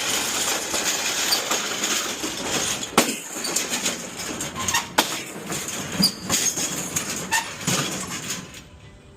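An empty metal delivery cart rattling as it is rolled along, with a sharp knock now and then. The rattle dies away near the end.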